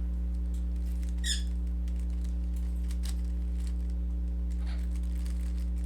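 Steady electrical hum with faint, scattered clicks of a Rubik's cube's layers being turned, and a brief high squeak about a second in.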